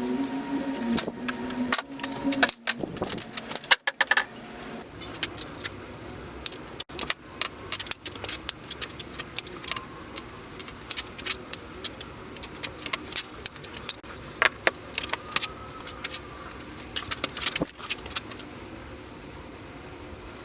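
Many light, irregular clicks and clinks of small hard objects being handled, with a steady hum that stops about two and a half seconds in.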